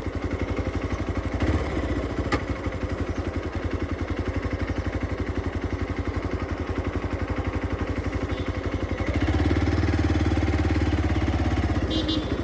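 Motorcycle engine running while riding, a steady fast low pulse that grows louder from about three quarters of the way in, as when the throttle is opened.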